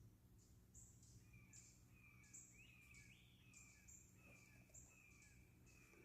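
Faint woodland sounds at dawn: an insect chirping in short high pulses about twice a second, and from about a second in a bird repeating a short whistled note two or three times a second.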